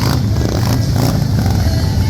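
Motorcycle engines running with a steady low rumble, mixed with music playing.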